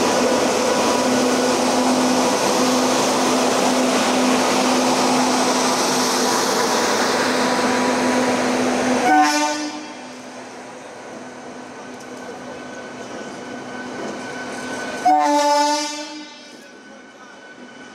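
Train running on the tracks, a loud even rumble that drops away about nine seconds in. A short locomotive horn blast sounds as it drops, and a second one about six seconds later.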